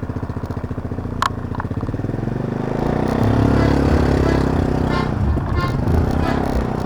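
Honda PCX125 scooter's single-cylinder engine running with an even putter, then picking up and getting louder about three seconds in. A sharp click sounds about a second in.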